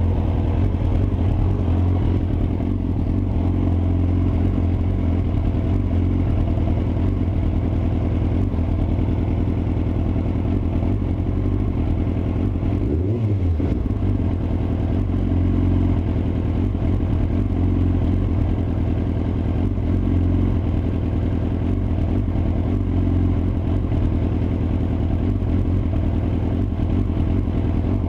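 Yamaha R6 inline-four engine running at low revs with a misfire, caused by ignition coils that were not pressed fully home. There is a brief change in pitch about halfway through.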